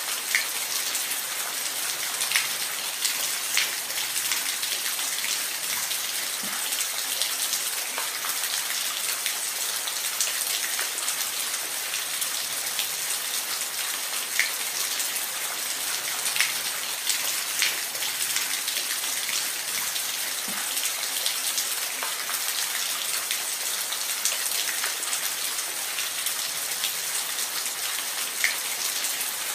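Steady hiss of falling water, with scattered sharp splashing ticks on top.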